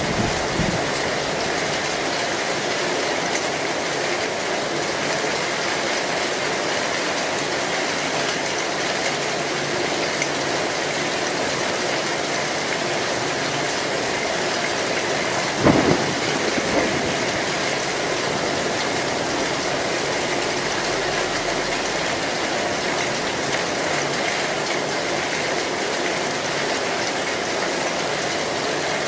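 Heavy rain falling steadily on a tin roof, a dense even patter. About halfway through there is a sudden short, sharp crack, with a smaller one about a second later.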